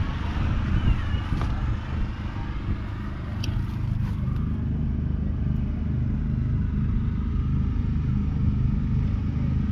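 JCB Fastrac 4220's 6.6-litre six-cylinder diesel engine running steadily, a deep even drone.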